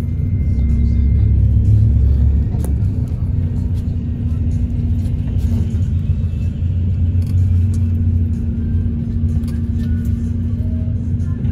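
Inside a moving Philippine Rabbit bus: steady low engine and road rumble with a constant hum, heaviest in the first couple of seconds, and a single sharp knock about a quarter of the way in.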